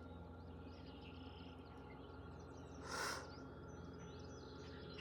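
A strong, breathy exhalation blown out through the mouth about three seconds in, part of a repeated forceful-breath core exercise. Birds chirp faintly in the background.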